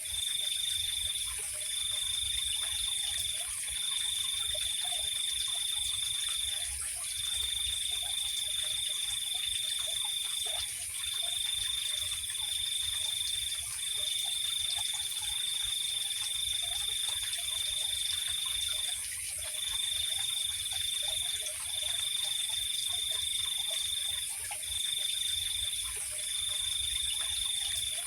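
Night insects trilling: one high trill runs in stretches of about one to four seconds with short breaks, over a second, higher, unbroken insect drone. Faint low scattered calls sound beneath them.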